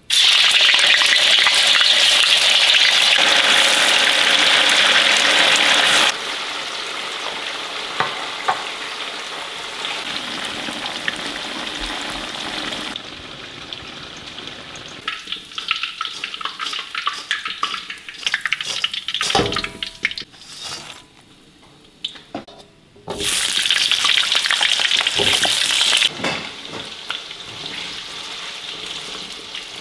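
Tofu pieces and potato wedges frying in hot oil in a wok, sizzling. The sizzle is loud for the first six seconds, then quieter with many sharp pops and crackles, and loud again for a few seconds about three-quarters of the way in.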